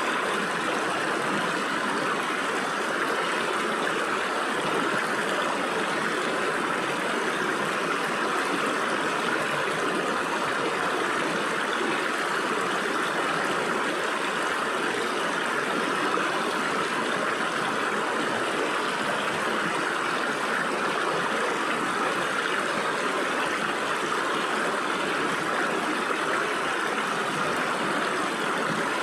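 Stream water flowing and splashing through gaps between rocks, a steady continuous rush.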